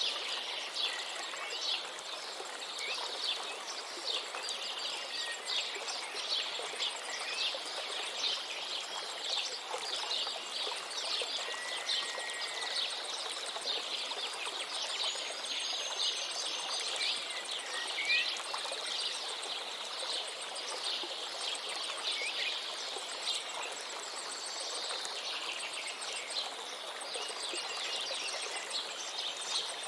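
Steady rushing of a river, with many small birds chirping in quick, short notes over it throughout.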